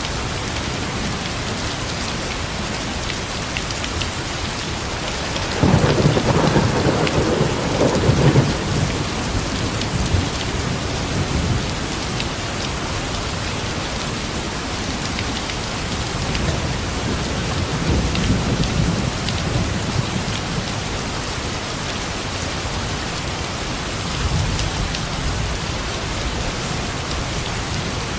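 Steady rain falling, with thunder rumbling: a loud roll about six seconds in that lasts a few seconds, and fainter rumbles later on.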